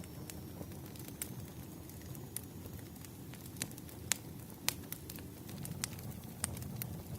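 Wood fire crackling: irregular sharp pops and snaps, about a dozen, over a steady low rumble.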